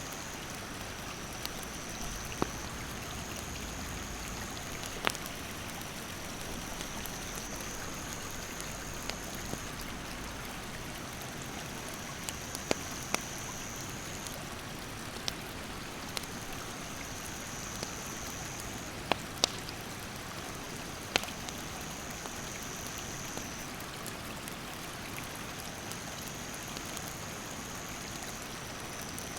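Steady rush of a mountain stream with a wood campfire crackling in occasional sharp pops. An insect's high, steady buzz comes and goes in stretches of a few seconds.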